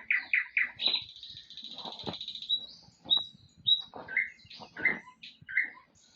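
Small birds chirping: a quick run of repeated chirps, a short buzzy trill about a second in, then scattered single chirps and calls.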